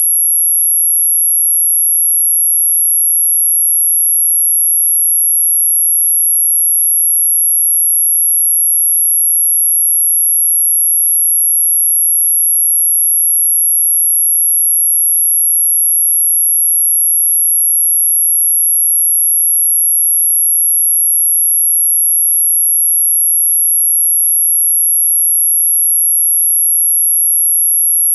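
A single steady, very high-pitched electronic tone with no change in pitch or loudness: a synthesized pure tone played as an anti-mosquito repellent sound.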